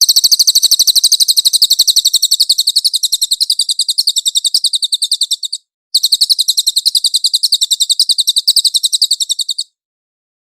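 Cililin songbird giving a rapid, high-pitched trill of evenly repeated notes. It sings in two long bouts with a short break about halfway through.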